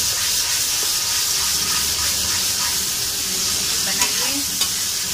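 Thick tomato-and-spice masala sizzling in oil in a steel kadai while a metal spatula stirs it. The masala has been fried until the oil separates. The spatula clicks sharply against the pan twice, about four seconds in.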